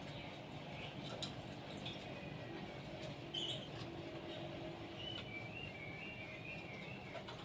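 Small birds chirping: scattered short, high chirps, then a wavering twitter for a couple of seconds past the middle, over a low steady background hum.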